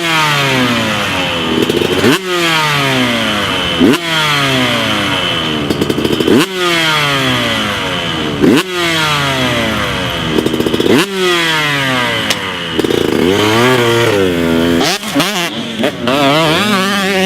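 Husqvarna TC125 125cc two-stroke motocross bike running hard: the engine snaps up in revs about every two seconds, with the pitch falling away in between. Near the end come quicker throttle blips.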